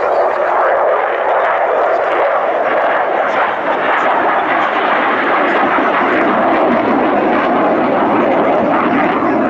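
Fixed-wing aircraft engine noise, a loud and steady rushing sound with no clear tone.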